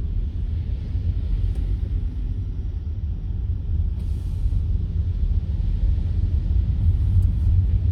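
Low, steady rumble of a car driving, heard from inside the cabin, with a brief hiss about four seconds in.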